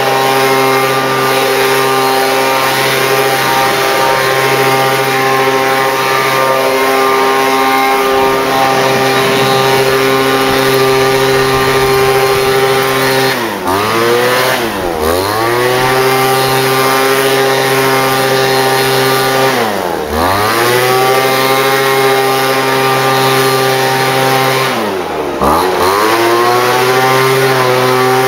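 Small petrol engine of landscaping power equipment running at high speed. Three times, about halfway, two-thirds and near the end, its pitch drops sharply and climbs back within about a second.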